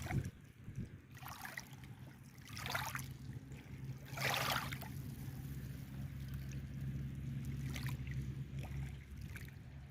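Water splashing and lapping a few times in short swishes, the loudest about four seconds in, over a steady low hum.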